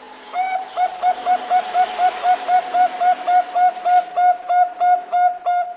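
Zebra dove (Bangkok perkutut) cooing: a rapid run of short, clear notes on one pitch, about four a second.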